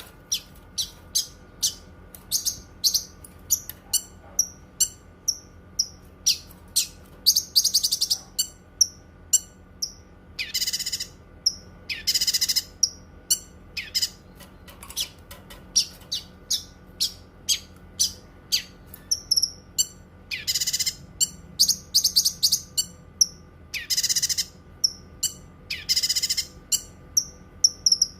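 Cucak kinoi singing: a quick string of short, sharp high chirps, broken every few seconds by a longer rattling phrase about a second long.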